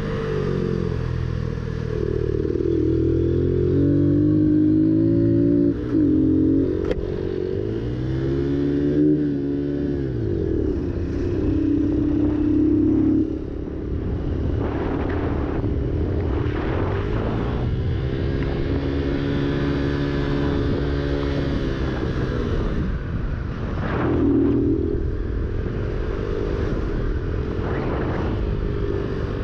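Motorcycle engine being ridden: its note climbs with the throttle and drops sharply several times, as through gear changes, over a steady low rumble.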